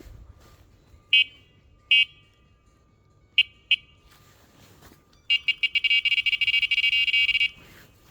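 High-pitched electronic beeps: two single beeps about a second apart, then a quick pair, then a rapid run of beeps for about two seconds.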